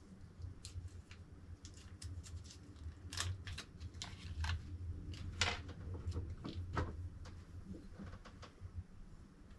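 Hands handling packaging and parts during an unboxing: irregular clicks, scrapes and rustles, busiest in the middle, over a low hum.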